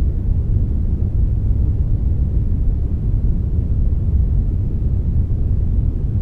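Steady synthesized brownish noise, a blend of brown and white noise: an even, unchanging deep hiss with most of its weight in the low end.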